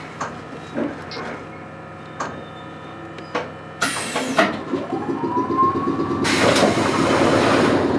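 Wakayama Electric Railway 2270-series electric train standing at a station: a few faint knocks, then a sudden loud hiss about four seconds in, a whine rising in pitch, and from about six seconds a loud, steady hiss over a humming drone from the train's equipment.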